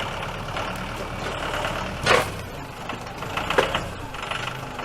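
Tractor engine running steadily, with two loud clunks about two and three and a half seconds in, the first the louder.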